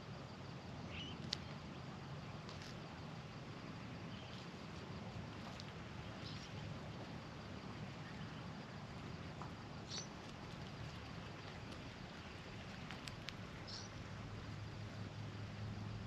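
Quiet outdoor ambience with a few faint, short, high bird chirps scattered through it, and soft scattered clicks and rustles as a male Australian magpie forages on the ground in dry hay mulch.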